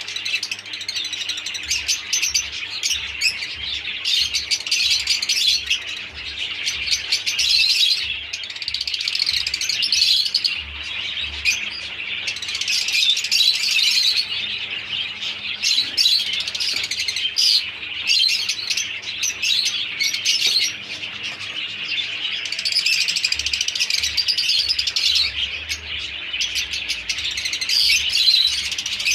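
A flock of parrots chirping and chattering together: a dense, continuous twitter of many overlapping high calls.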